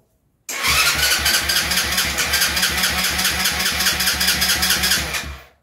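A 50cc mini chopper's single-cylinder engine catches suddenly about half a second in, runs with an even pulsing beat for nearly five seconds, then cuts out.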